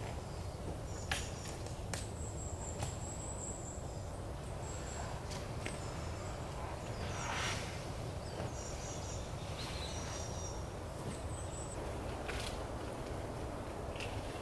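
Small birds calling in a forest: thin high whistles and short quick trills, over a steady low rumble, with scattered sharp clicks.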